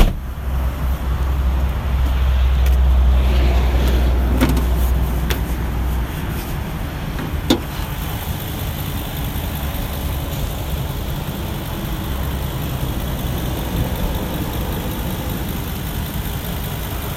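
2015 Ford E350 cube van's engine running, a steady low rumble that is louder for the first six seconds, with a sharp click at the start and another about seven and a half seconds in.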